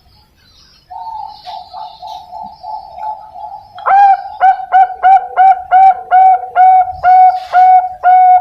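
Zebra dove (Bangkok perkutut) singing. A fast rolling purr starts about a second in, and about four seconds in it gives way to a loud run of about a dozen short coos at one steady pitch, nearly three a second.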